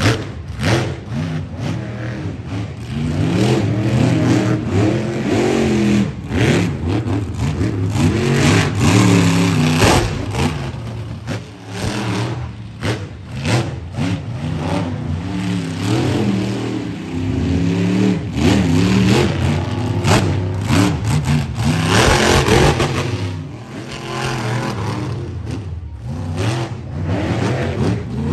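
Monster truck engine revving hard, its pitch climbing and dropping again and again as the throttle is worked, with sharp bangs scattered throughout.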